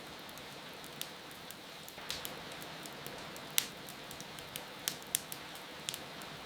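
Wood fire crackling, with sharp irregular pops over a steady hiss of rain; the loudest pop comes about halfway through.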